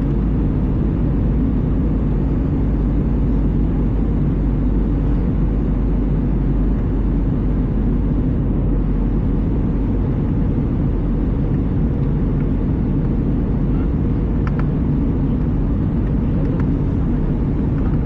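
Steady low rumble of an Airbus A320's engines and airflow heard inside the passenger cabin, with a couple of faint ticks in the second half.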